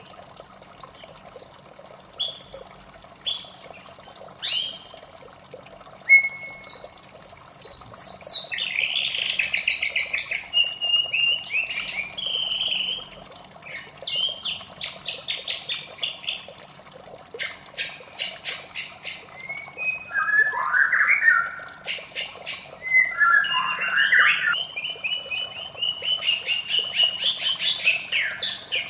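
White-rumped shama singing: a few short separate whistled notes, then a long run of varied phrases with fast trills and rattles. A steady trickle of running water sits underneath.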